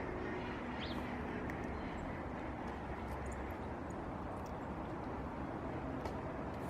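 Domestic ducks quacking faintly over a steady outdoor background rumble, with a faint high chirp about a second in.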